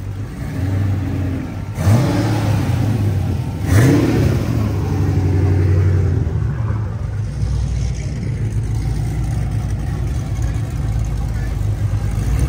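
Car engine accelerating, its pitch climbing sharply twice about two seconds apart, then settling into a steady low drone.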